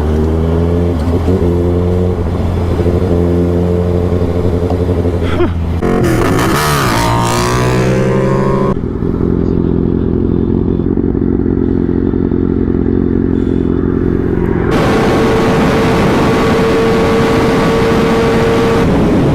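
Motorcycle engine running under way, its pitch rising and falling as it revs around the middle. For several seconds after that the sound goes muffled, then a steady rushing noise covers the engine.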